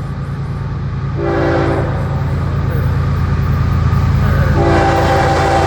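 Diesel freight locomotive passing a grade crossing with its air horn sounding the crossing signal: a short blast about a second in, then a long held blast starting past four seconds, over the steady low rumble of the engine.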